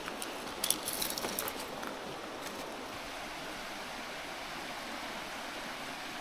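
Mountain river murmuring steadily. A quick cluster of light clicks and clinks comes about a second in.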